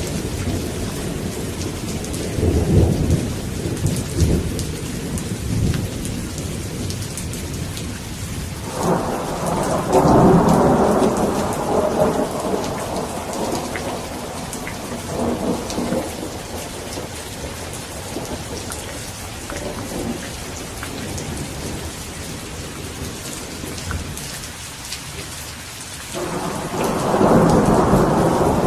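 Steady rain falling, with rolls of thunder: a rumble a few seconds in, a louder one about nine seconds in that fades over several seconds, and another starting near the end.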